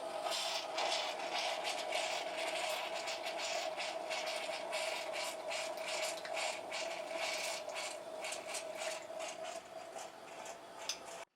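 Dense, irregular clicking and scraping from a small mechanism being worked, over a steady hum, cutting off suddenly near the end.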